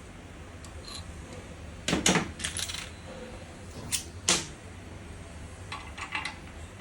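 Small metal parts and tools clinking and tapping on a workbench: a loud cluster of clinks about two seconds in, two sharp ones around four seconds, and lighter ticks near the end, over a steady low hum.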